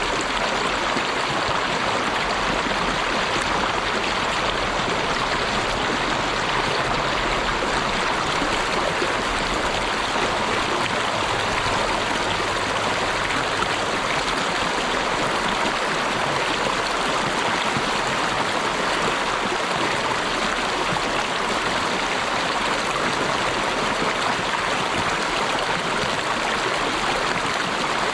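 Running water in a steady, even rush with no breaks or surges.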